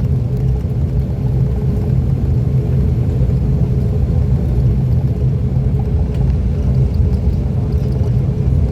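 Steady drone of an ATR 42-600's twin turboprop engines and propellers, heard from inside the passenger cabin, with a steady low hum of several tones.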